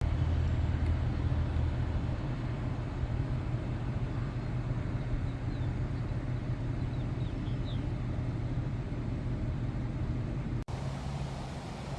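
Vehicle engine running steadily at idle, a low even hum, with a few faint bird chirps over it.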